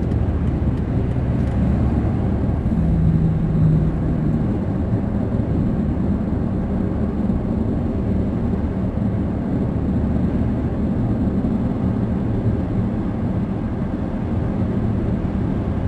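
Steady low engine and road rumble heard from inside a moving car in slow traffic, with a brief low hum rising a little about three seconds in.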